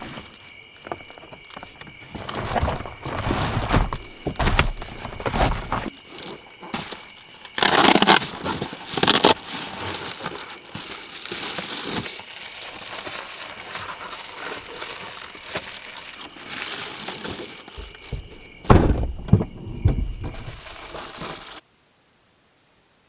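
Dry sticks being snapped and kindling rustled and crunched, as when a campfire is being laid, with a few loud sharp cracks. The sound stops abruptly near the end.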